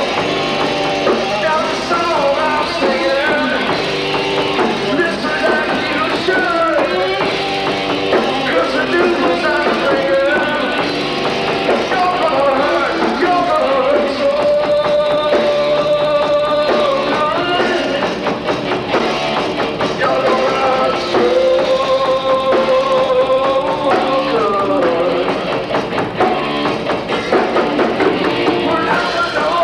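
Rock band playing live, with a drum kit under a bending melody line that holds long notes in the middle of the passage.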